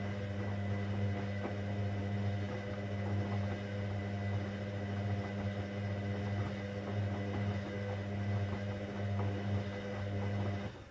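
Hoover Dynamic Next washing machine running a cotton 60 programme: a steady low electrical hum that cuts off suddenly just before the end.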